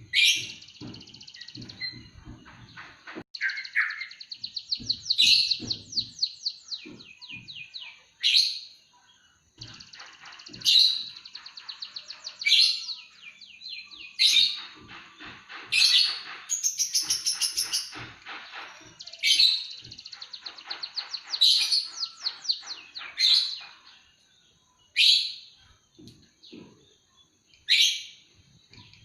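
Caged songbird singing a canary-like song: loud, sharp high chirps repeated every second or two, with long rapid trills of quick repeated notes between them.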